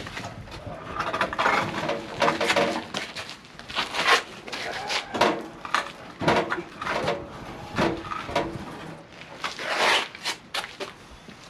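Irregular knocks, clanks and scrapes of a car engine being worked into place on a jack, with faint indistinct voices.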